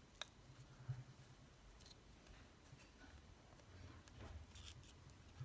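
Faint clicks and small handling noises from the plastic parts of an opened wireless charger being worked apart, with one sharp click just after the start and a few more near the end; otherwise near silence.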